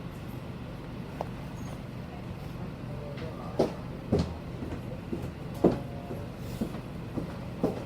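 Nishitetsu city bus running, its low, steady drone heard from inside the passenger cabin, with a series of sharp knocks and rattles from about halfway through.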